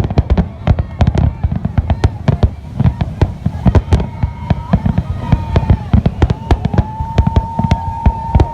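New Year fireworks display: a rapid, dense run of bangs from bursting shells, several a second. About two-thirds of the way in, a steady high tone joins and holds.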